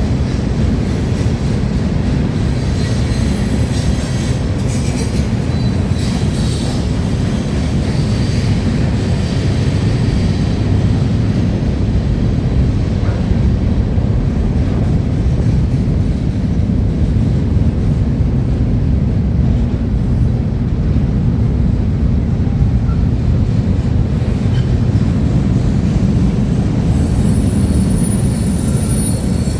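CSX manifest freight train's cars rolling past on steel rails: a steady, loud low rumble. High-pitched wheel squeal rises over it about three to eight seconds in and again near the end.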